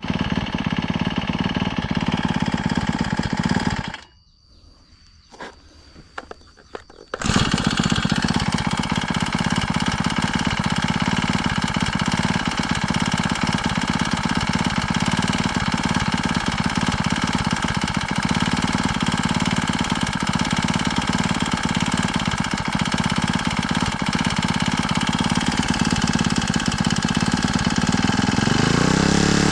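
Brush cutter engine running steadily just after its carburettor was adjusted. It cuts out about four seconds in, and about three seconds later it is going again and runs on steadily.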